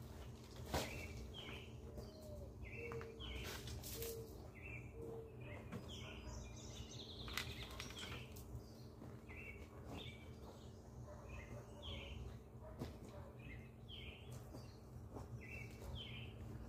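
Small birds chirping over and over in short high notes, with a few faint knocks and a low steady hum in the background.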